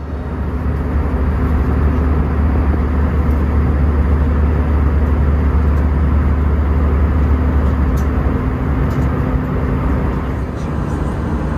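Steady cabin noise inside an Airbus A319 in flight: the engines' deep drone and rushing airflow, with a slight drop in level about ten seconds in.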